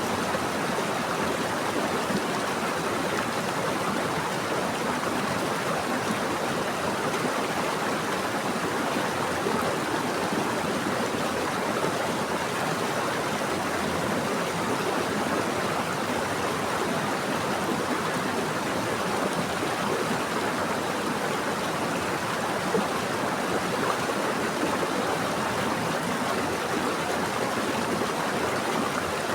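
Running water of a stream flowing steadily: an even, unbroken rushing noise.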